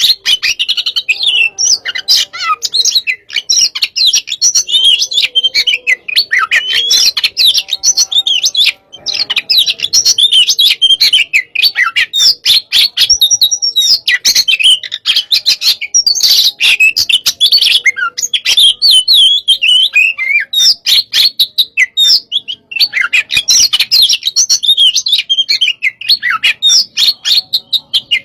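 Oriental magpie-robin (kacer) singing hard and without let-up: a rapid, varied run of whistles, chirps and harsh notes laced with sharp clicks, broken only by a couple of short pauses.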